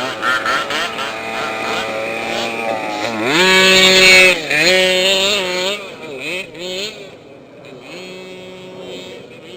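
Small two-stroke engine of a gas 1/5-scale RC truck revving under throttle: the pitch climbs steeply about three seconds in to a loud high whine held for about a second, dips, rises again, then falls away into short throttle blips and fades.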